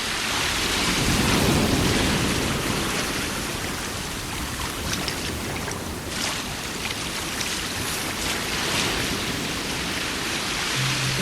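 Rain-and-thunder noise from the swapped-in background audio track: an even hiss of rain with a low rumble swelling about a second in.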